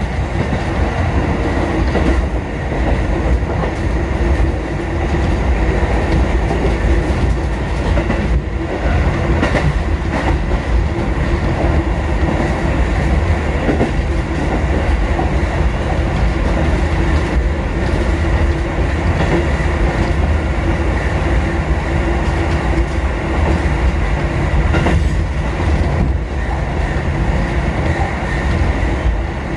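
Kotoden 1080-series and 1100-series four-car electric train running steadily between stations: a continuous rumble with a steady hum and a few wheel clacks on the rail.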